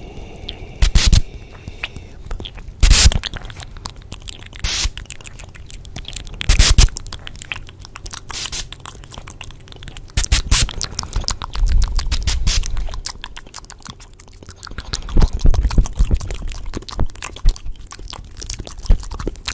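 Layered close-microphone ASMR trigger sounds: a dense, irregular run of crisp clicks, crunches and scrapes, with louder clusters every few seconds.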